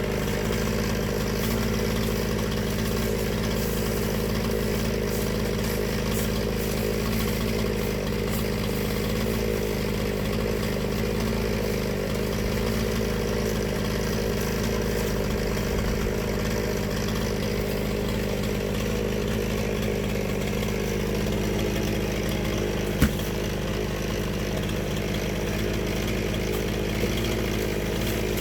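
Small petrol engine running at a steady speed while firewood is being prepared, with one sharp knock about two-thirds of the way through.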